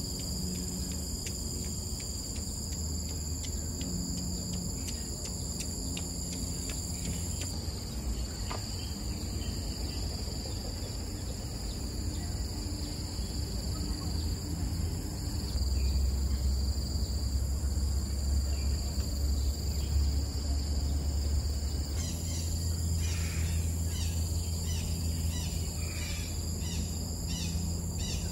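Outdoor ambience of insects, crickets, giving a steady high drone throughout, over a low rumble. About three-quarters of the way through, a bird starts calling in short repeated chirps, about two a second.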